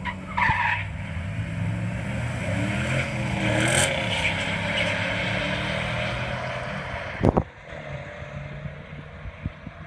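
A silver Ford Mustang and a red pickup truck launching side by side down a drag strip at full throttle, their engines revving hard with the pitch rising and falling as they accelerate away. The sound falls off quickly after a sharp knock about seven seconds in, as the cars get far down the track.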